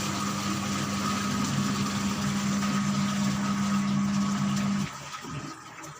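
LG washing machine, rewired from digital to manual control, running its motor with a steady hum and mechanical noise that cuts off suddenly about five seconds in.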